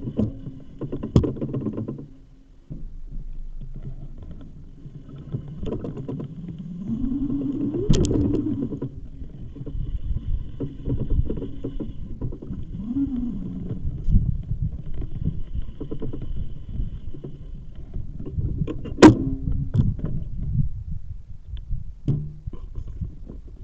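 Muffled rumble of a bicycle ride over uneven ground, with irregular knocks and rattles. A whine rises in pitch about seven seconds in, and another briefly rises and falls later on. Sharp knocks come near the middle and again near the end.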